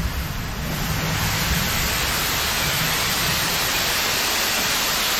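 Steam hissing steadily and loudly from a narrow-gauge 0-4-0 steam tank locomotive, swelling about a second in, over a low rumble that dies away in the first half.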